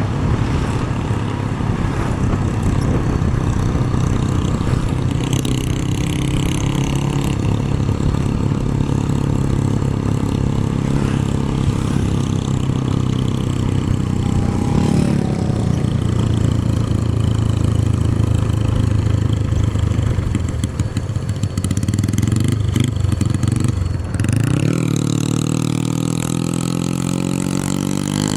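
Motorcycle engine running steadily under way, with road and wind noise. Near the end the note drops briefly, then rises as the engine revs up again under acceleration.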